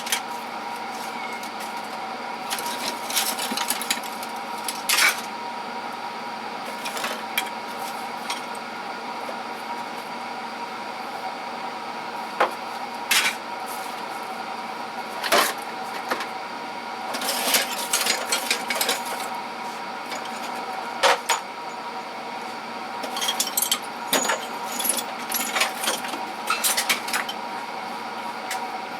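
Hand tools clinking and clattering as they are picked up and set down, in scattered knocks and short rattling spells, over a steady hum from the shop.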